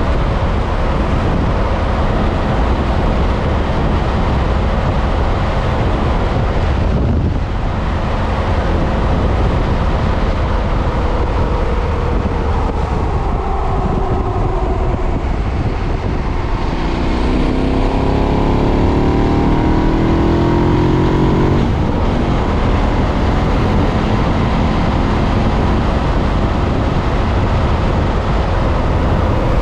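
A KTM 990's V-twin engine through its stock exhaust while riding, with wind rush over the bike. The engine note falls away about twelve seconds in, then climbs again for several seconds under acceleration before settling back to a steady cruise.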